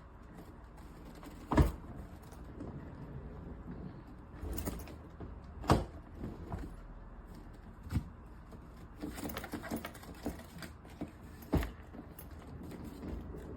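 Handling noises: four sharp knocks or clicks a few seconds apart, with light clicking and rattling in between, loudest near the middle.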